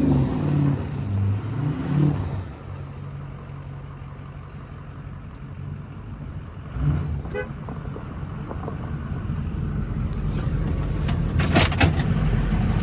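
6.0 Power Stroke V8 turbodiesel in a 1979 Ford F-250 revving up and down twice, then running at a low, steady note as the truck works its way off the ice. Near the end the engine builds again and a few sharp knocks are heard.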